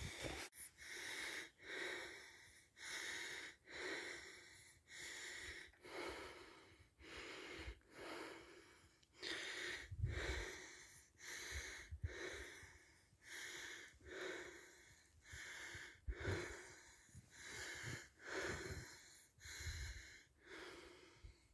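A person's heavy, rapid breathing close to the microphone, one hissing breath about every second, with a few faint low thumps.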